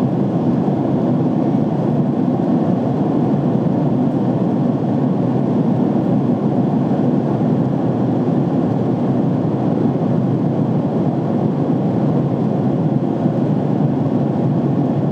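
Jet airliner cabin noise in flight: a steady, low rushing sound that holds constant without change.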